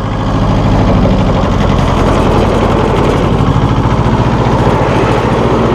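1984 John Deere 650 compact tractor's three-cylinder diesel engine running steadily with the PTO engaged, driving the John Deere 261 finish mower spinning behind it.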